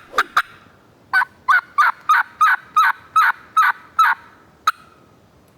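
Hen turkey calls made on a hunter's turkey call: a couple of sharp cutts, then a run of about ten yelps at roughly three a second, and one last sharp cutt about four and a half seconds in. This is calling to draw a gobble from a tom.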